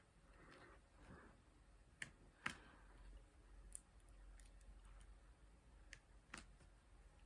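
Near silence with a few faint, scattered clicks and taps of small plastic diamond-painting tools: the drill pen and drill trays handled at the canvas.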